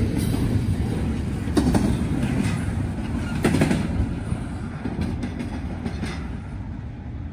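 Norfolk Southern intermodal freight cars rolling past, a steady rumble with the wheels clacking irregularly over rail joints. The sound slowly fades as the train draws away.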